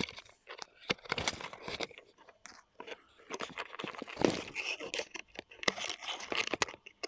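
Stainless steel safety locking wire being fed through and scraped against exhaust manifold heat wrap: irregular crunching, scraping and crinkling handling noises with sharp little clicks.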